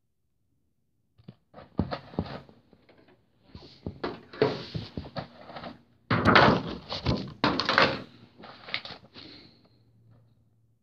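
Cardboard box and packaging being handled and opened: irregular knocks, thumps and scraping rustles, loudest about six to eight seconds in.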